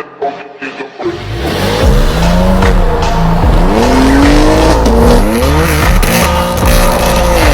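A sports car's engine revving hard, its pitch climbing and falling again and again from about a second in, over background music.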